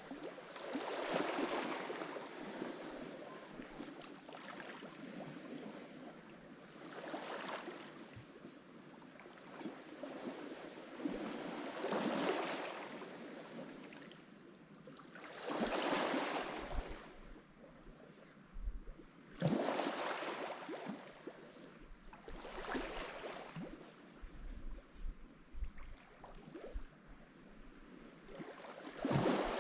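Lake Michigan waves breaking against a rocky shore, each surge swelling and washing back every few seconds.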